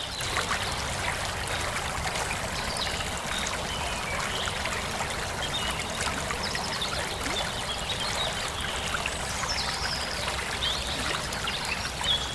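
Water flowing steadily in a stream, a continuous trickling and rushing.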